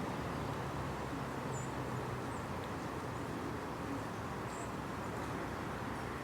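Steady outdoor background noise with a low rumble, and a few faint, short, high chirps: one about a second and a half in and another about three seconds later.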